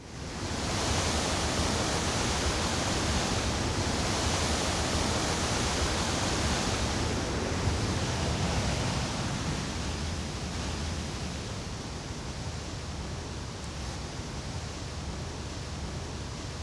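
Steady rush of flowing water. It fades in at the start and eases a little about halfway through.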